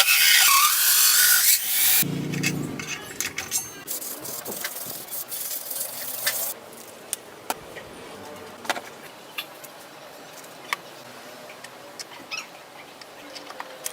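A loud hissing tool noise that cuts off about two seconds in, followed by scattered clicks and knocks from metal parts and tools being handled.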